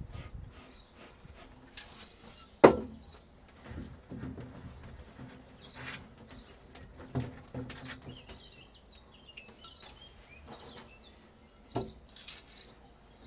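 Birds chirping in the background, broken by a few sharp knocks, the loudest about two and a half seconds in and others later.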